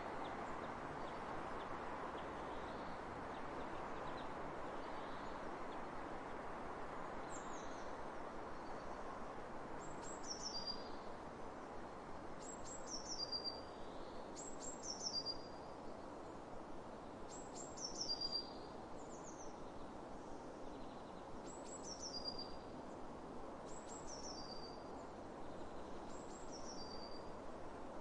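A small songbird repeats a short, high call of a few quick notes stepping downward, about once every two seconds, starting around seven seconds in. Under it runs a steady rush of wind across open fields.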